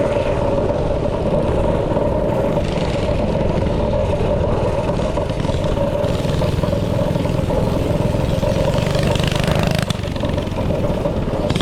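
Small engine running steadily close by, with a brief drop in level about ten seconds in.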